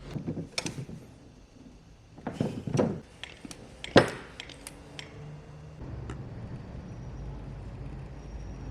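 A series of clinks and knocks of hard objects being handled, with the sharpest knock about four seconds in, then a low steady hum from about six seconds.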